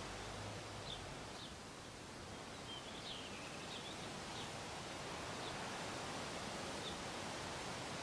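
Outdoor bush ambience: a steady background hiss with a few short, high bird chirps scattered through it.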